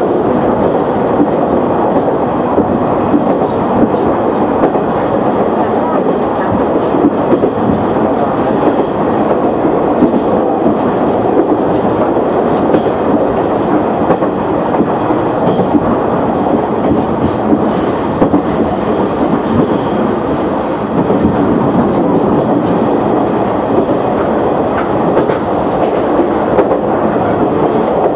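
KiHa 100 diesel railcar running at speed, heard from inside the car behind the driver's cab: a steady rumble of the engine and the wheels on the rails. A thin, high squeal sounds for a few seconds past the middle.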